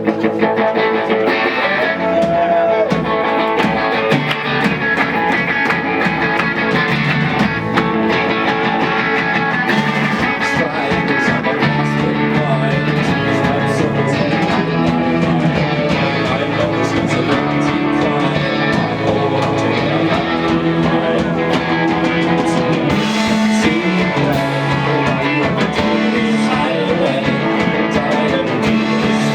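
Live rock band playing an instrumental stretch: electric guitars, bass guitar and drum kit.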